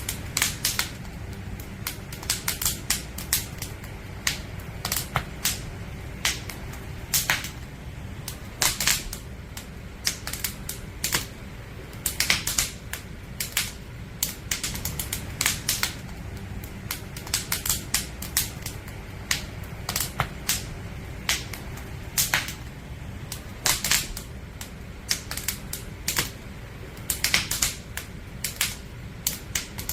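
Firewood crackling in a campfire: irregular sharp snaps, sometimes several a second, over a steady low rumble.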